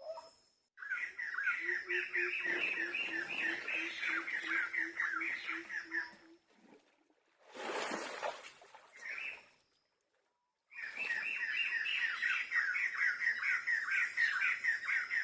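An animal calling in long runs of rapid chirps, about five a second, with a thin steady high whine behind them. A brief rush of noise comes between the two runs.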